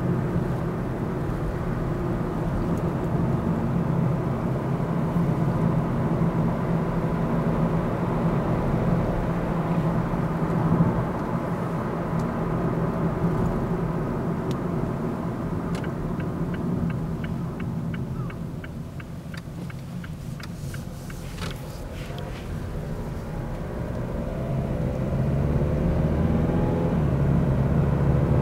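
Cabin sound of a Mazda Demio XD Touring's 1.5-litre turbodiesel driving up a mountain road: a steady engine drone with road noise. About two-thirds through it eases off and goes quieter, with a brief run of light ticking, then the engine note rises again as the car accelerates near the end.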